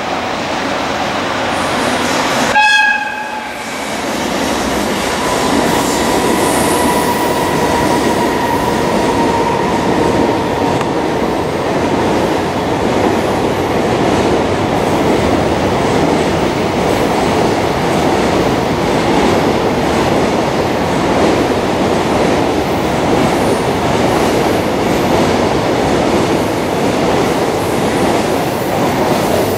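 Freight train: a short horn blast from the electric locomotive about two and a half seconds in, then the long train of container wagons rolling past with a steady rumble and wheel clatter.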